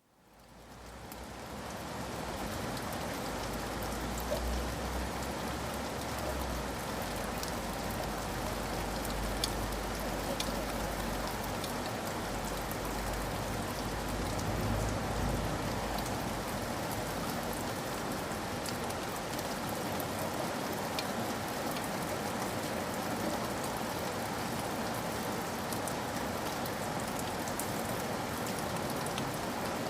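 Steady rain with scattered individual drops tapping, fading in from silence over the first couple of seconds, with a low rumble underneath in the first half.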